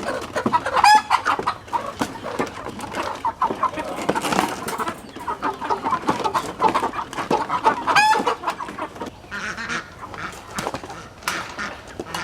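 Meat chickens (broilers) clucking continually, with two louder squawks, about a second in and again near eight seconds, as the birds are caught and handled.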